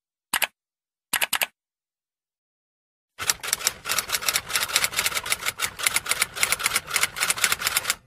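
Two short bursts of typing keystrokes, then after a pause of about two seconds a mechanical typewriter typing rapidly, several key strikes a second, which keeps going.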